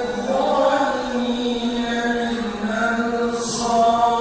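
A man reciting the Quran in the melodic chanted style of tilawa, drawing out long held notes that glide slowly up and down, with a brief hissed 's' about three and a half seconds in.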